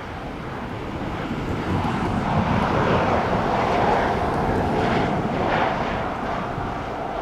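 Jet airliner passing on its landing approach, the engine noise swelling to a peak about two to four seconds in and then fading.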